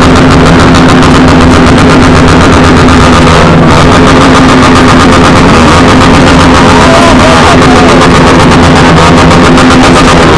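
Many motorcycles with loud aftermarket exhausts revving together, a continuous dense racket so loud the recording is overloaded.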